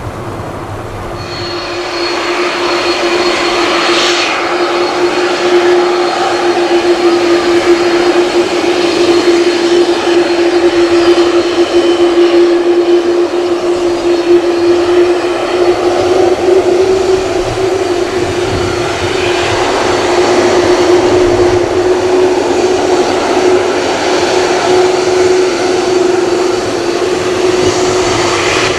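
Jet engines of an Airbus A330-300 airliner running loud at close range: a dense rushing noise with a steady drone underneath, swelling about two seconds in and holding.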